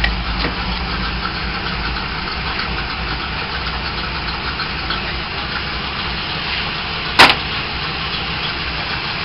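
Small-block Chevy 400 V8 in a 1948 Ford Anglia idling steadily, with one sharp clack about seven seconds in.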